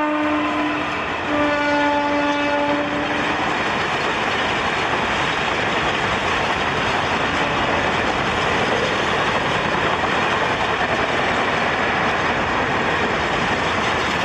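Indian Railways electric locomotive sounding its horn in two blasts as it passes, the second slightly lower and ending about three and a half seconds in. The steady noise of a long rake of passenger coaches rolling by on the rails follows.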